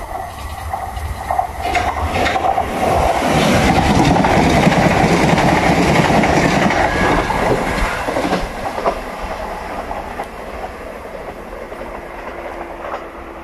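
Southern Class 377 Electrostar electric train running through the station at speed without stopping: wheels clattering on the rails in a rush of noise that builds, is loudest about four to six seconds in, then fades as the train draws away.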